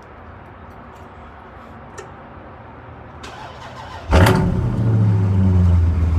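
A car engine cranking over and firing up with a loud pop a little after four seconds in, then running at a steady idle.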